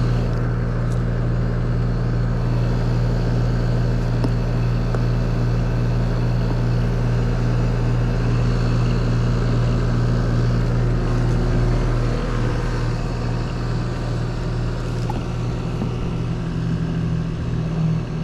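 Rheem heat pump running in cooling mode, a steady low compressor and fan hum, with the system now producing cold air.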